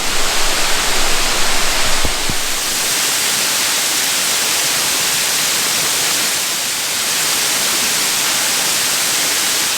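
Waterfall running: a steady, loud hiss of falling water.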